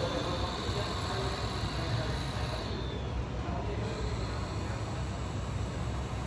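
Radio-controlled model construction machines running: a steady low rumble with a high electric whine that fades out about three seconds in.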